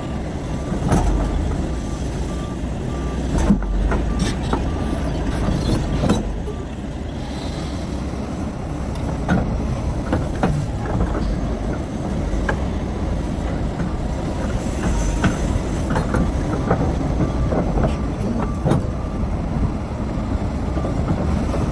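A Terex RH30F excavator running under load while loading stones, with a steady deep engine and hydraulic rumble and frequent sharp knocks of rock striking steel. A reversing alarm beeps steadily for the first third and again from about two-thirds of the way through.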